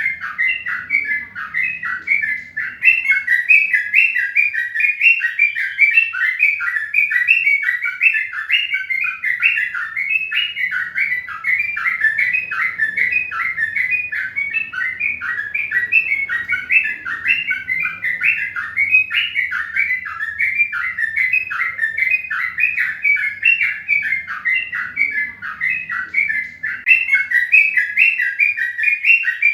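A bird or birds chirping continuously in a rapid, steady run of short chirps, several a second.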